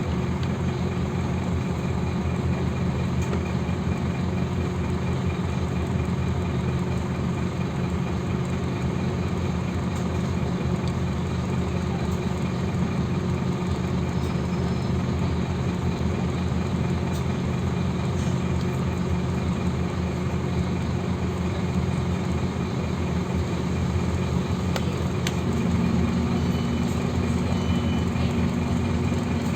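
Scania OmniLink city bus engine running steadily, with a constant low hum. Near the end a new steady, slightly higher tone joins in.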